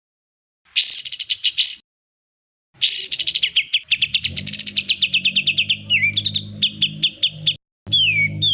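Songbird's rapid-fire 'tembakan' song: a short burst of fast repeated high notes about a second in, then a long phrase of about ten notes a second that settles into a steady trill, ending in a quick falling whistle. The phrases are cut cleanly with silent gaps between them, and a faint low hum runs beneath the long phrase.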